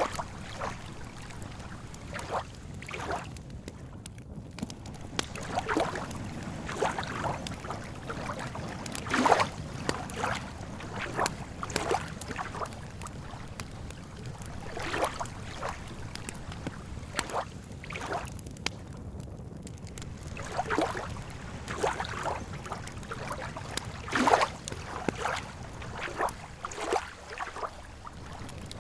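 Wood campfire crackling with irregular pops, a couple of them sharper and louder, over a steady low rush of lake water lapping.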